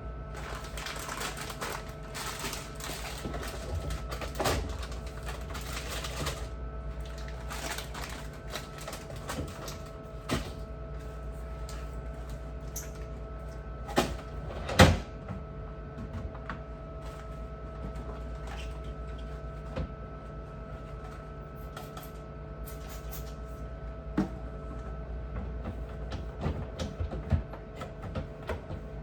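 Someone cleaning inside a refrigerator: scrubbing for the first several seconds, then scattered clicks and knocks of shelves and bins being handled, with two loud knocks about halfway, over a steady hum.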